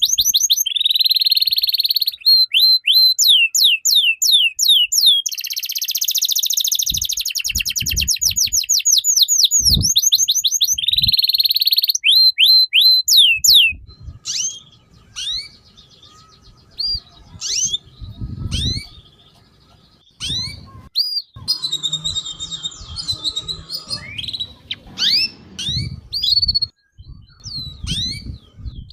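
A songbird singing: loud fast runs of sharp, high, down-slurred chirps and a rapid trill for about the first half, then sparser, quieter chirps and whistles.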